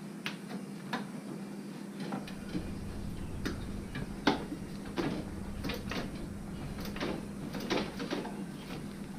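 Scattered clicks and knocks of hand work on a radiator hose and its clamp as the hose is worked off the radiator, over a steady low hum.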